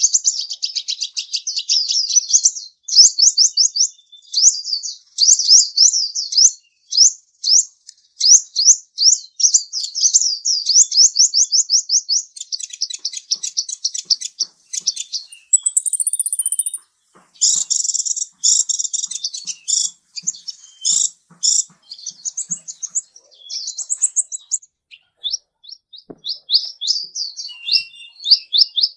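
A small bird singing long runs of rapid, high chirping notes, broken by short pauses, with a brief higher whistle about halfway through.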